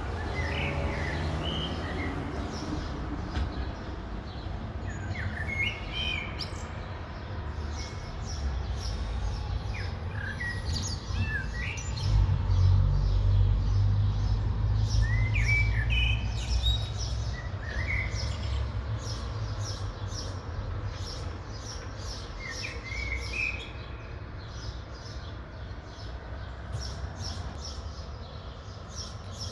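Small birds chirping intermittently over a steady low rumble that grows louder for a few seconds around the middle.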